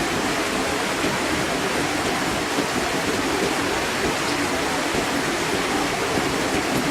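Water from a waterfall pouring steadily into a fish pond, an even splashing rush.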